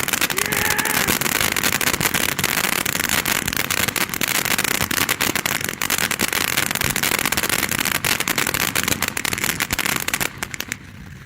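Safe-and-sane ground fountain firework burning with a dense hissing crackle and a few brief falling whistles, dying down sharply near the end.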